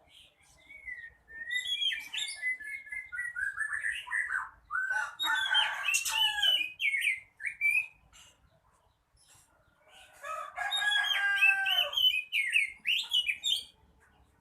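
Oriental magpie-robin (kacer) singing in full voice: varied whistles and fast chattering phrases in two long bouts, with a pause of about two seconds between them.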